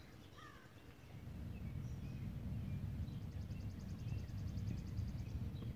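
Small birds chirping and calling in the background, with a rapid, even trill of about ten notes a second in the middle. A low rumble comes in about a second in and stays as the loudest sound.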